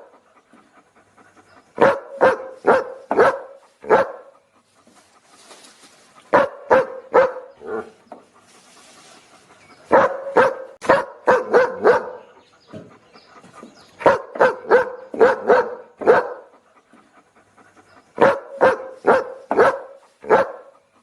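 A dog barking in quick bursts of about four to six barks, the bursts repeating every few seconds with short pauses between.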